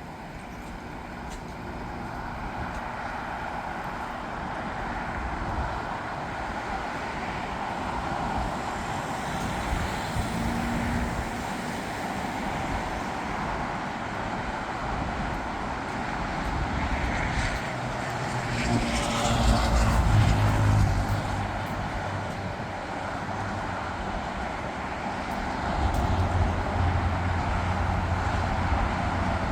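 Jet airliner engine noise, a steady rush that builds gradually and is loudest about 20 seconds in, then swells again with a low rumble near the end.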